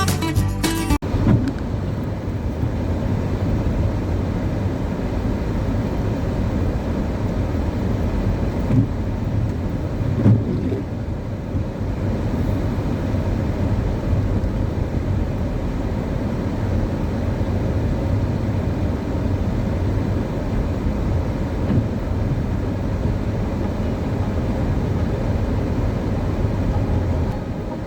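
Car driving: a steady low engine and road rumble. Acoustic guitar music cuts off about a second in.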